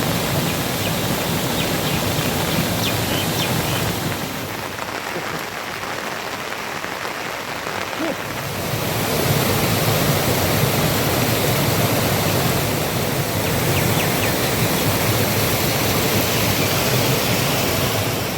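Heavy rain falling steadily as a dense hiss. It eases about four seconds in and grows heavier again around nine seconds in.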